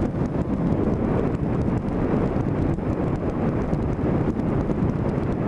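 Steady wind buffeting the microphone of a camera clamped to a moving vehicle at road speed, with road and engine noise underneath.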